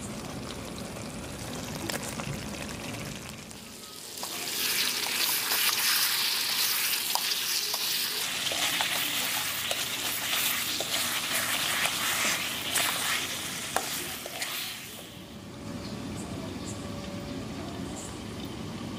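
Chicken curry frying in a kadai: a loud sizzle surges about four seconds in as potato pieces go into the hot pan, with a metal spoon clicking and scraping against the pan as it is stirred. The sizzle dies back to a quieter hiss about fifteen seconds in.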